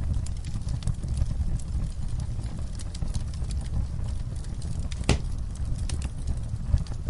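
Wood campfire crackling: a steady low rumble of burning, with frequent small snaps and one louder pop about five seconds in.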